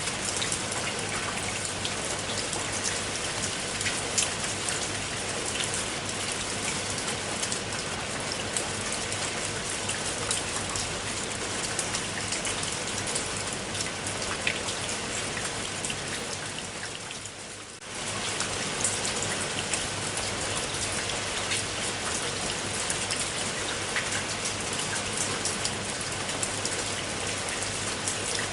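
Steady rain falling, an even hiss with many distinct drop ticks on a surface. About two-thirds of the way through, the rain fades down for a moment and comes straight back.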